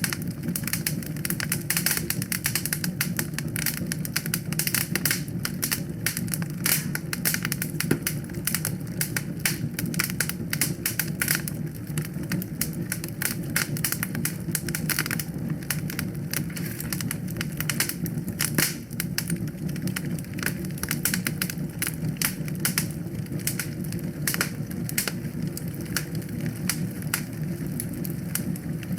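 Wood fire in a fireplace crackling: a dense, irregular run of sharp snaps and pops over a steady low rumble.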